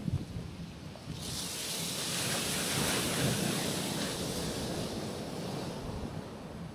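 Gentle sea waves washing onto a rocky shoreline: a low thump right at the start, then about a second in a wave rushes in with a hiss that swells and then fades away over the next few seconds.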